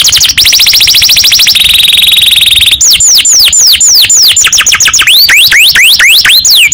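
Domestic canary singing loudly in the 'ngerek' style. It opens with a very fast rattling trill and a short buzzy held note about one and a half seconds in, then breaks into a run of quick downward-swooping whistles, about three or four a second, with a few rising ones among them.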